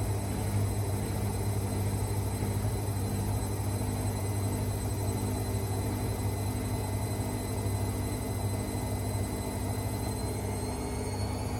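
AEG Lavamat Exclusiv 6469AFL washing machine running: a steady low hum with a motor whine above it, the whine rising in pitch near the end as the drum speeds up.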